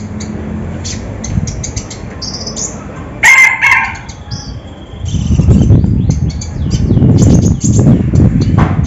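Konin songbird chirping in quick, high, short notes. About three seconds in there is a loud, harsh call, and from about five seconds in a loud low flutter or rumble runs under the chirps.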